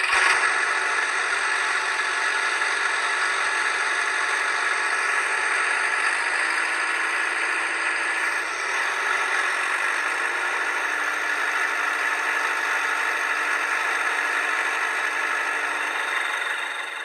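Vehicle engine running steadily with a dense rattle and clatter, an even mechanical noise that holds level without revving.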